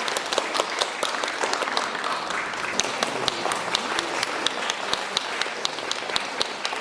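Audience applauding steadily, with many hands clapping at an uneven rate and murmuring voices underneath.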